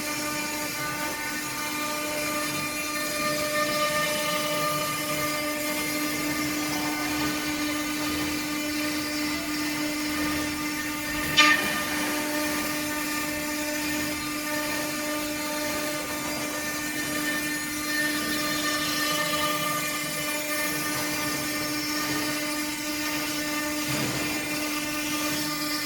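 CNC router spindle running with a steady whine as it mills. One sharp click comes about halfway through.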